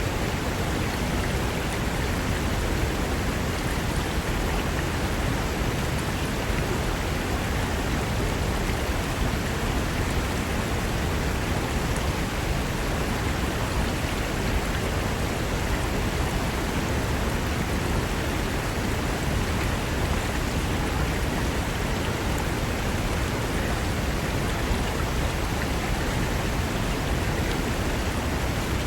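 Fast mountain river rushing over rocks: a steady, even roar of white water with no change.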